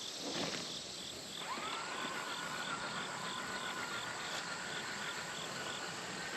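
Crickets chirping in a steady, even rhythm, with a thin steady whine setting in about a second and a half in.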